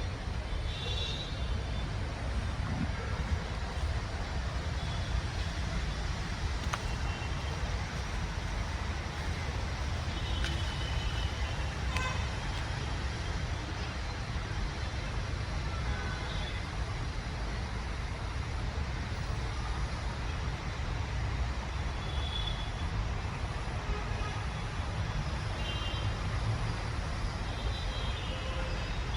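Steady city traffic noise, with a few faint, short bird calls now and then above it.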